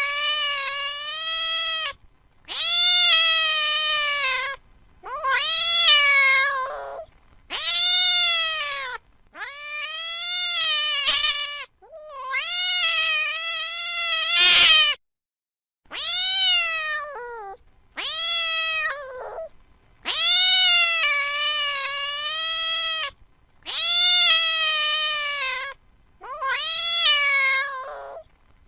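Domestic cat meowing over and over: about eleven long, drawn-out meows, each lasting one to three seconds, with short pauses between them.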